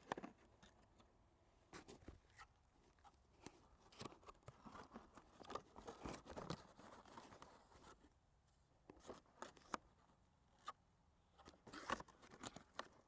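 Faint, scattered crunching, crinkling and clicks of a food box and its wrapping being handled and pushed into place. A denser stretch of rustling comes about four to seven seconds in, and a few sharper clicks come near the end.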